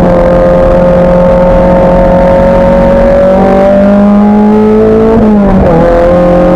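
Race car engine running hard under load, its pitch climbing slowly for about five seconds, then dropping sharply about five seconds in as the driver lifts or changes gear, before it climbs again.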